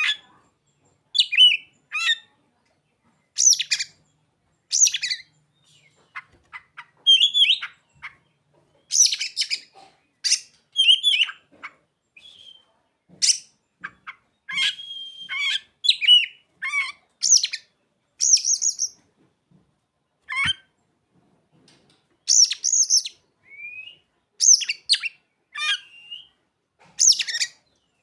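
Oriental magpie-robin (kacer) singing a varied song of short, high chirps and whistles, about one phrase a second with brief gaps. This bird's song is filled with learned imitations of ciblek (bar-winged prinia) and sogon calls.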